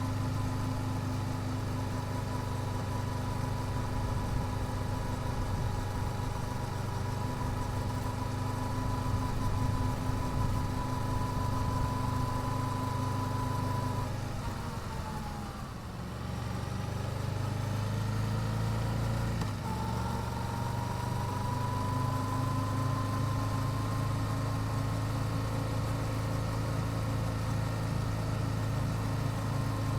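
Yamaha YZF-R7's parallel-twin engine through its stock exhaust, running steadily under way. About halfway the engine note falls and quietens as the throttle closes, then rises again a few seconds later as the bike pulls away and settles back to a steady cruise.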